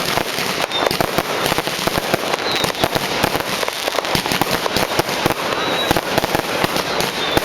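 Fireworks and firecrackers going off densely: a continuous rattle of overlapping bangs and crackles with no pause between them.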